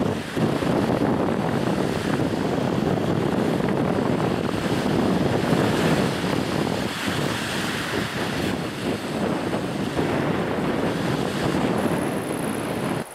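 Steady rushing of wind over the microphone mixed with surf breaking on the Baltic shore, cutting off abruptly near the end.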